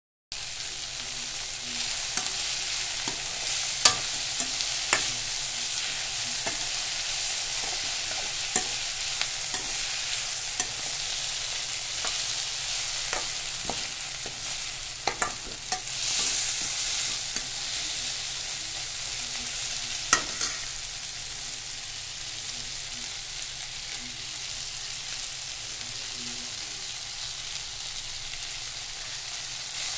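Onions, green chillies and tomatoes sizzling steadily in oil in a steel wok, the tempering for tempered rice. A steel spatula stirs them, scraping and clinking against the pan at irregular moments, loudest about 4 and 20 seconds in.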